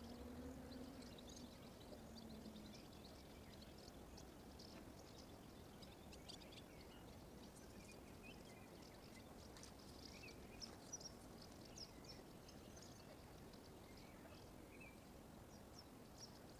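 Faint, busy chirping and twittering of small songbirds over a steady low background hiss. A faint low hum fades out in the first few seconds.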